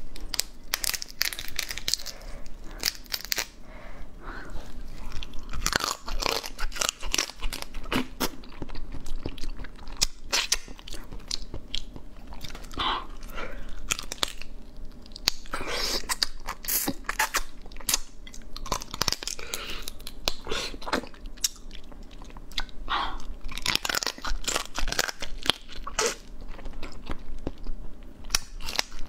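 Close-up crunching and chewing as a person bites through the shell and body of a soy-marinated crab, in repeated clusters of sharp crunches.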